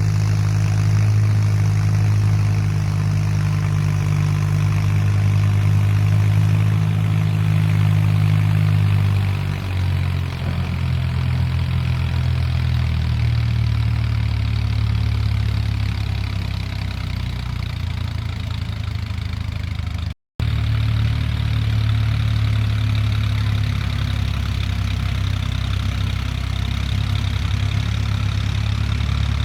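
Mahindra 265 tractor's three-cylinder diesel engine running steadily, its speed dropping a little about a third of the way in. The sound cuts out for a split second about two-thirds of the way through.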